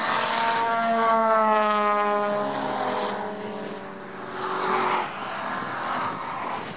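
Cars driving at speed on a race track. One car's engine note falls steadily in pitch as it passes, and another car rushes by near the end.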